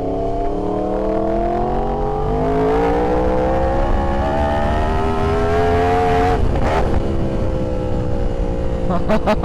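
Yamaha R1's crossplane inline-four engine accelerating under load, its pitch rising steadily for about six seconds. About six and a half seconds in, an upshift drops the pitch, and the engine pulls on in the next gear.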